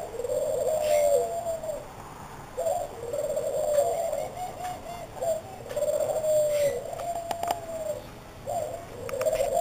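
A dove cooing over and over, a series of low, drawn-out coos each about a second long with short pauses between them, with a few faint chirps from other birds.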